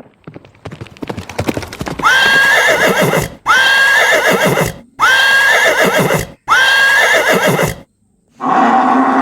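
Horse hooves clip-clopping, growing louder over the first two seconds, then a horse neighing four times, each whinny rising sharply and then quavering. Near the end a different, lower sound begins.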